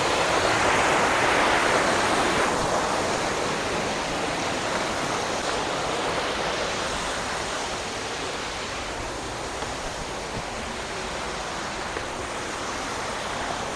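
Rushing water of a waterfall cascading down rock: a steady hiss, a little louder for the first couple of seconds, then easing slightly.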